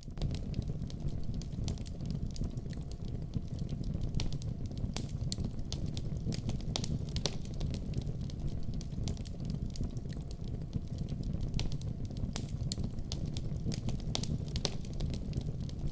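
Wood fire burning in a fireplace: a steady low rush of flame with irregular sharp crackles and pops of burning logs.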